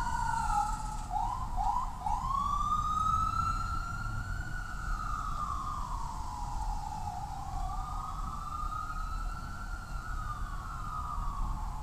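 Emergency vehicle's electronic siren. It gives a few quick chirps about a second in, then a slow wail that rises and falls twice.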